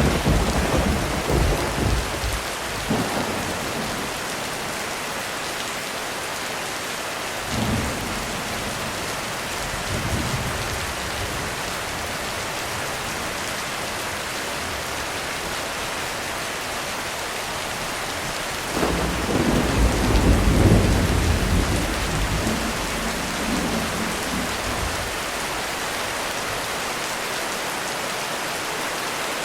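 Heavy rain falling steadily as thunder rumbles: one rumble at the start, two short ones around eight and ten seconds in, and a long, loudest rumble from about nineteen to twenty-five seconds in.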